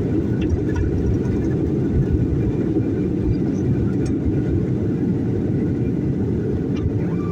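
Sukhoi Superjet 100 cabin noise during takeoff: a steady, loud, low rumble of its SaM146 turbofans at takeoff power. A thin, high tone comes in near the end.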